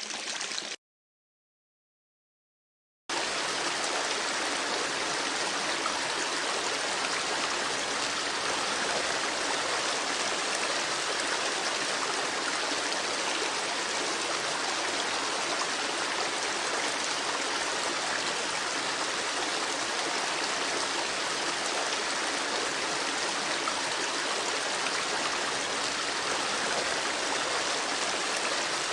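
Babbling creek: a steady rush of running water, broken near the start by about two seconds of dead silence where the recording drops out before the water resumes.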